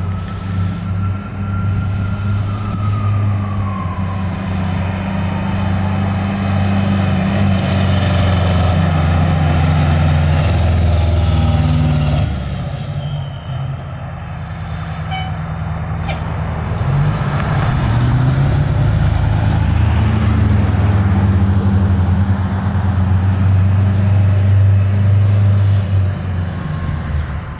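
Pierce fire engine's diesel engine running loud and hard, with a siren tone that winds down over the first few seconds. The engine eases off about halfway through, then revs back up and pulls hard again.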